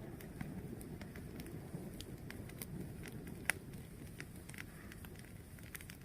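Fire burning with a steady low rumble and scattered crackles and pops, one sharper pop about three and a half seconds in.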